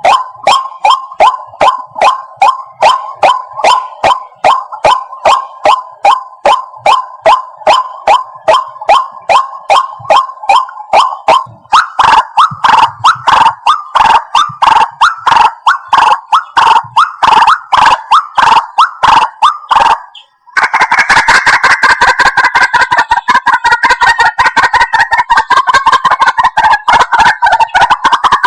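White-breasted waterhen calling: a loud, insistent run of evenly repeated notes, about two or three a second. After a brief break about twenty seconds in, the calls resume faster and denser.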